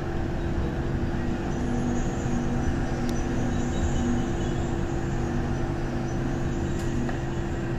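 MTR Disneyland Resort Line M-train, an electric multiple unit, running along the track, heard from inside the leading cab: steady running noise of wheels on rail with a constant low hum.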